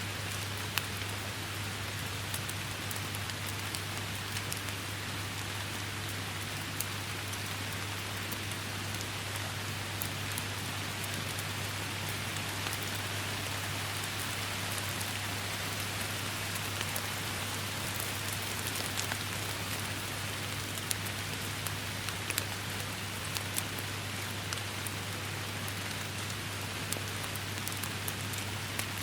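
Steady rain falling without let-up, with many individual close drops ticking sharply through it and a steady low hum underneath.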